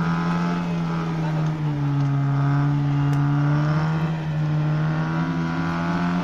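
Opel Frontera 4x4's engine running under load at a fairly steady pitch as the vehicle crawls slowly up a rutted off-road track.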